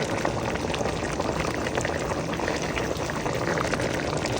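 Pot of fish and vegetables bubbling at a boil as it steams, a steady crackling simmer.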